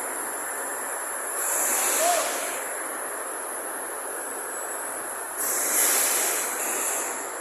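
Robotic welding line in a weld shop: steady machinery noise with a high whine, and two hissing bursts of about a second each, one about a second and a half in and one about five and a half seconds in.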